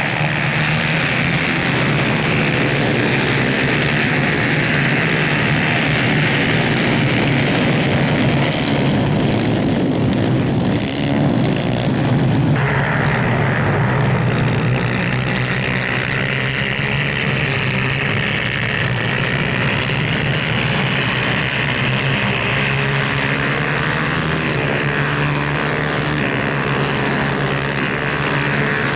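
250cc racing kart engines running hard at race pace, their pitch rising and falling as the karts accelerate and lift off. The sound changes abruptly about twelve seconds in.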